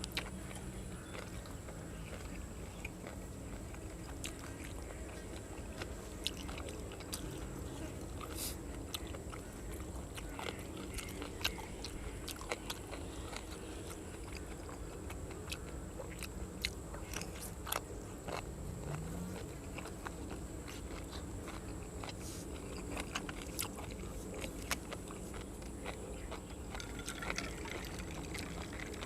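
A person chewing and biting grilled cuttlefish and raw vegetables, with scattered sharp crunches and clicks over a steady low background hum.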